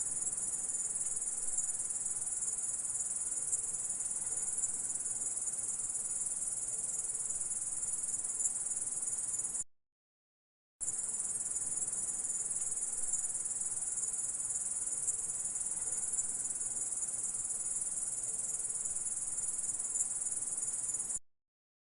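Grasshoppers stridulating: a continuous high-pitched insect buzz that cuts out completely for about a second near the middle, starts again, and stops shortly before the end.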